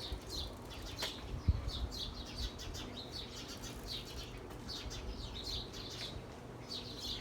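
Many small birds chirping together in a continuous chorus of short, rapid, high chirps, over a steady low rumble. There is a single click about a second in.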